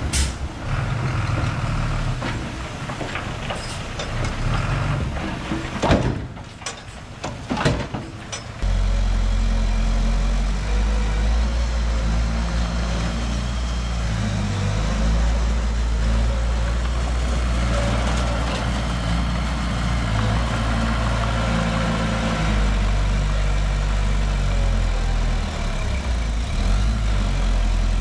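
Heavy construction machine engines running, with a couple of sharp knocks about six and seven and a half seconds in; from about nine seconds a steady low engine drone.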